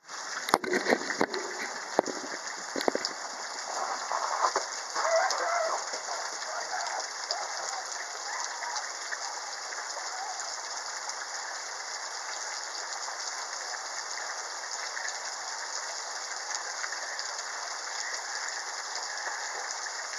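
Steady rain falling, an even hiss of drops on surfaces, with a few sharp knocks in the first three seconds.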